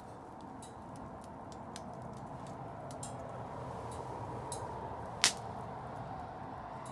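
Wood fire crackling: scattered small cracks over a steady low rush, with one sharp pop about five seconds in.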